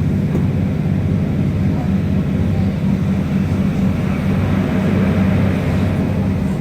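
Cabin sound aboard a Class 156 Sprinter diesel multiple unit on the move: the underfloor Cummins diesel engine runs with a steady low drone over running noise from the rails.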